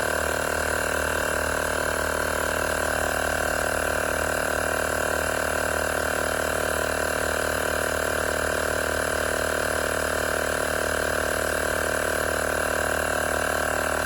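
Tower Top cordless portable tire inflator's small compressor running steadily with a buzzing rattle, pumping a vehicle tire up toward its 36 PSI setting.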